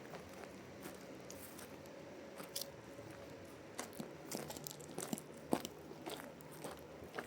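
Irregular crunching and crackling clicks that grow busier about two and a half seconds in, over a faint steady hum.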